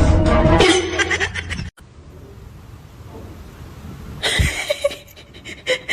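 People laughing loudly, cut off suddenly a little under two seconds in; then quiet room sound, until a new loud sound starts abruptly near the end.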